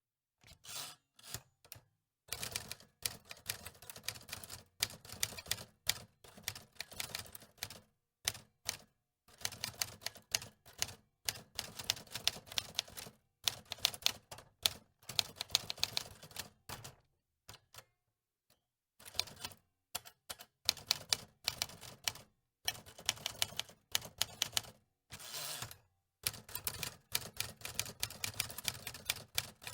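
Antique typewriter being typed on: runs of quick key clacks lasting a few seconds at a time, broken by short pauses.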